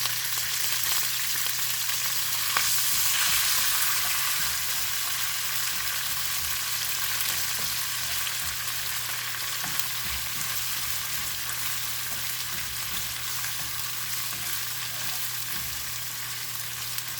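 Red curry paste, vegetables and Thai basil sizzling in hot oil in a pan while being stirred, a steady hiss that swells a little about three seconds in.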